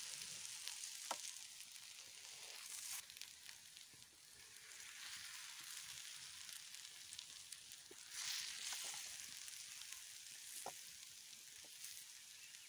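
Egg omelette frying in oil in a pan over a wood fire, sizzling steadily and swelling louder a couple of times. A few light clicks of the metal knife and spoon against the pan.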